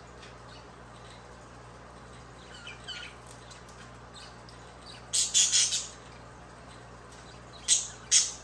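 Pet budgerigars chirping and squawking: a few soft chirps about three seconds in, a loud run of harsh squawks around five seconds in, then two short sharp squawks near the end.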